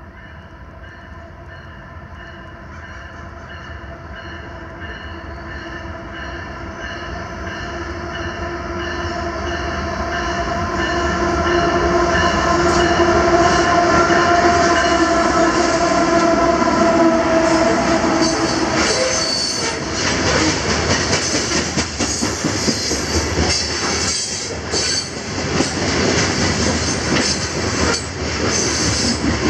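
A loaded CSX coal train's diesel locomotives approach with a steady drone that grows louder, and pass about eighteen seconds in. The loaded coal hopper cars then roll by, their wheels clattering and clicking on the rails.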